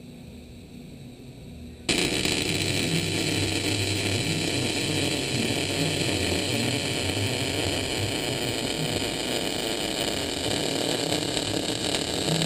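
A faint low hum, then about two seconds in a vehicle engine starts sounding loudly through its exhaust, running steadily to the end.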